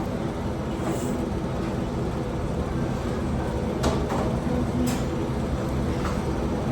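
Steady low hum of restaurant room noise, with a few short light clicks or knocks scattered through it.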